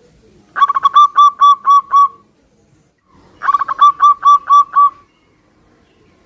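Zebra dove (perkutut) singing: two loud cooing phrases about a second apart. Each opens with a quick stutter of short notes and runs into about six clear, evenly spaced coos.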